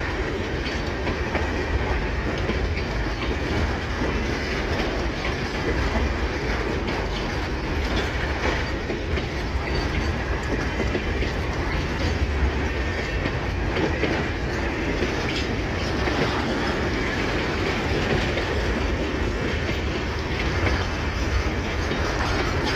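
Freight train of empty grain hopper cars rolling past, a steady low rumble with the wheels clicking over the rail joints.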